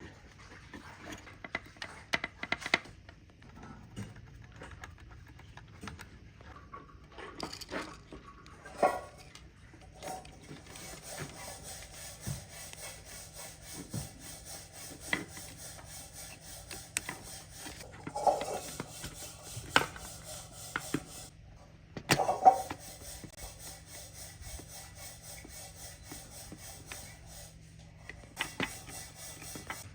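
Hand work on a surface: rubbing and scraping, with scattered knocks and clatters, the sharpest about two-thirds of the way through. A fine, fast, even rasping runs through most of the second two-thirds.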